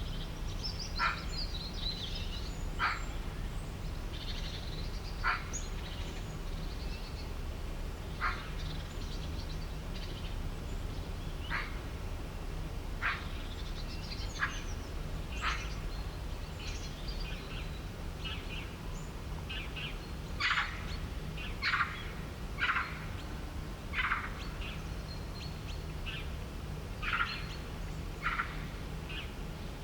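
Birds calling: short, sharp calls repeated every second or two, mixed with higher chirps and twittering, over a steady low rumble.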